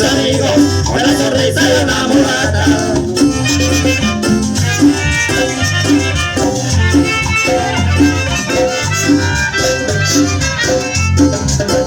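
Live chanchona band playing instrumental Latin dance music with a steady bass beat.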